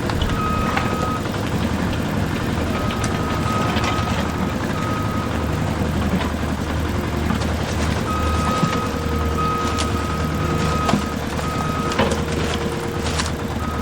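Vehicle reversing alarm beeping in runs of short and longer beeps over a low, steady engine rumble, with a few sharp clicks.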